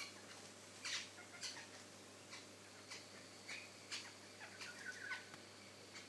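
Wild birds calling around a garden feeder: a scattered string of short chirps and sharp notes, some sliding downward in pitch. In the second half a thin, steady high tone runs under them.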